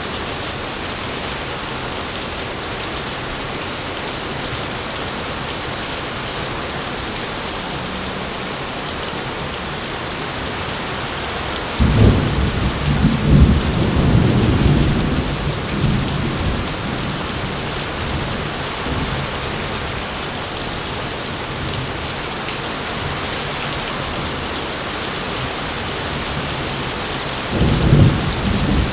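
Steady heavy rain with thunder: a sudden low rumble breaks in about twelve seconds in and rolls for several seconds before fading back into the rain, and another clap rumbles near the end.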